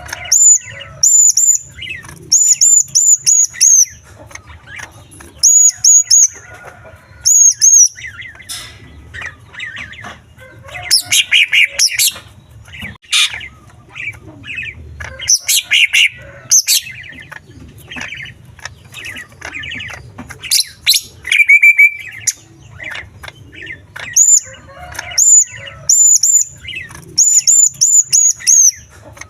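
Greater green leafbird (cucak ijo) singing loudly, a varied song full of imitated small-bird calls: runs of quick, very high hooked notes repeated in short groups, harsh chattering passages about eleven and fifteen seconds in, and a brief trill near twenty-one seconds.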